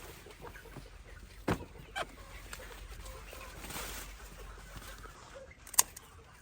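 Chickens clucking, with three sharp knocks or clicks: two close together about a second and a half in, and a louder one near the end.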